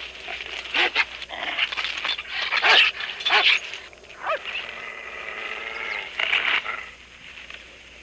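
German Shepherd dog whimpering and yelping in a run of high cries, one sliding sharply down in pitch about halfway through.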